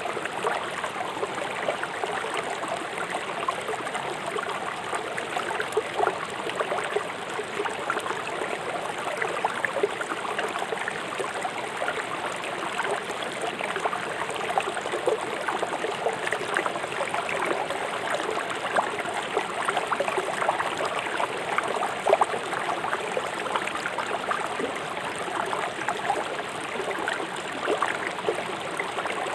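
Fast-flowing river rushing and splashing over stones, a steady continuous babble of water.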